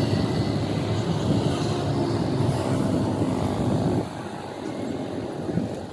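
A heavy vehicle's engine running with a low, dense rumble. It drops off sharply about four seconds in, then carries on much quieter.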